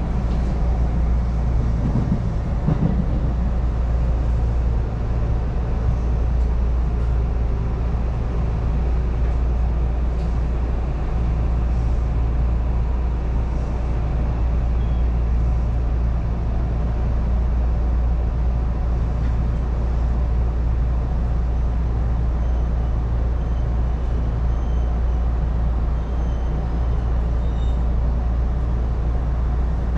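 Inside a moving JR Osaka Loop Line commuter train: a steady, loud low rumble of wheels on rail and traction motors, with faint falling motor tones early on.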